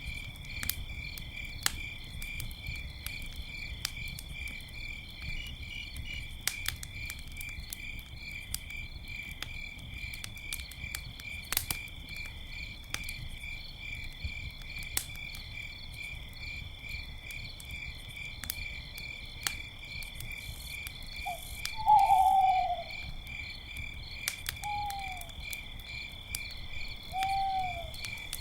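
Crickets chirping in a steady pulsing trill over a crackling campfire with scattered sharp pops. An owl hoots: one long falling hoot about two-thirds in, the loudest sound, then two shorter falling hoots near the end.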